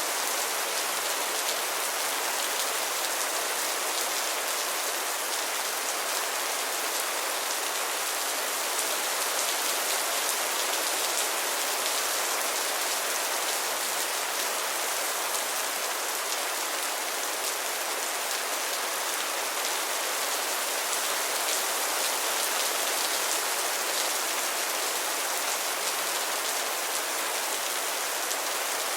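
Heavy rain falling steadily, an even hiss of many drops striking a surface, with no change in intensity.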